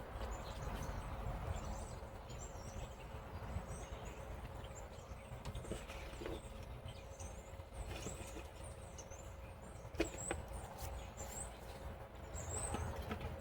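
Background ambience: small birds chirping high and repeatedly over a low steady rumble, with a single sharp click about ten seconds in.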